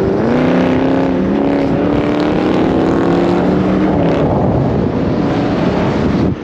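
A car engine accelerating hard at highway speed, its pitch climbing steadily over the first few seconds and then holding. It cuts off abruptly near the end.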